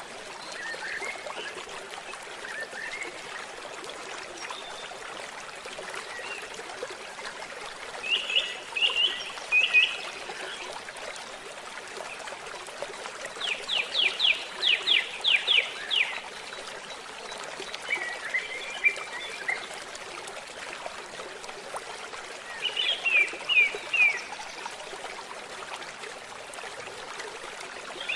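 A stream trickling steadily, with songbirds calling over it in short phrases; about halfway through one bird gives a quick run of about eight notes, and shorter phrases come before and after it.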